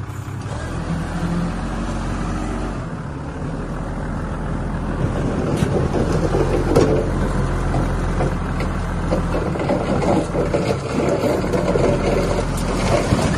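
Heavy diesel construction machinery running, its engine hum steady and slowly growing louder, with rattling and clanking joining in from about five seconds in.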